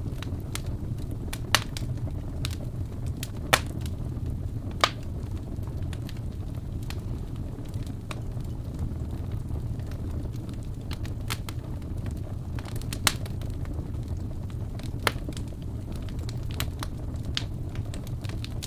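Wood fire burning in a fireplace, crackling with irregular sharp pops over a steady low rumble; a few louder snaps stand out, several in the first five seconds and two more past the middle.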